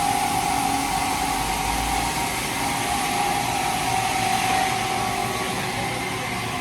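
Machinery running steadily, with a constant whine over a broad hiss.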